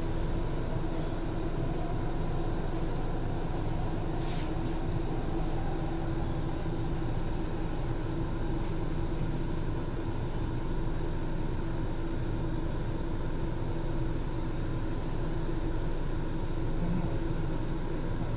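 Steady hum inside a stopped SMRT C151 metro train car, doors open at an underground platform, with a few steady tones over a low rumble.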